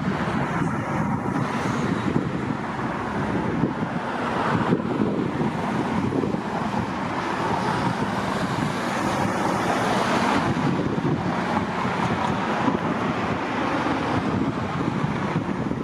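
Steady rushing noise of wind buffeting the microphone, with the sound of road traffic underneath.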